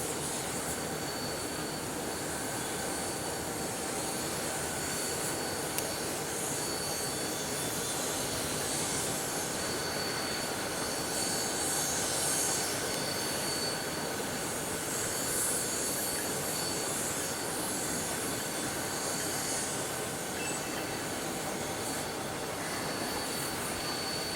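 Freight train cars rolling slowly through a rail yard: a steady rumble and rattle of wheels on rail, with a thin, steady high squeal from the wheels.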